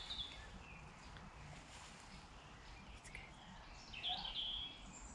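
Quiet woodland ambience with a few faint, short bird chirps; the clearest comes about four seconds in.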